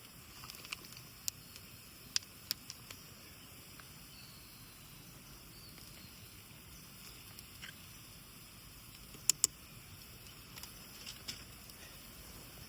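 Wood campfire crackling: a faint steady hiss broken by scattered sharp pops, with two loud pops in quick succession about nine seconds in.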